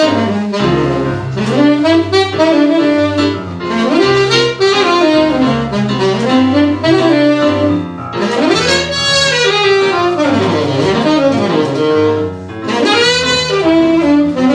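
Tenor saxophone playing a jazz melody line with keyboard accompaniment, running phrases of moving notes over sustained low chords.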